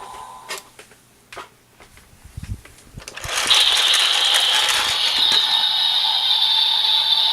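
Evolt Driver toy belt: a few faint plastic clicks of handling, then about three seconds in its small speaker starts a loud, steady electronic sound effect.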